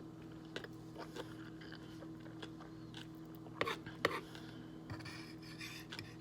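Close-up chewing and mouth sounds: a few soft, separate clicks, the strongest about three and a half and four seconds in, over a steady low hum.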